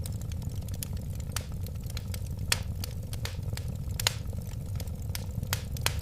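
Burning wood fire crackling: irregular sharp snaps and pops over a steady low rumble, with the loudest snaps about two and a half and four seconds in.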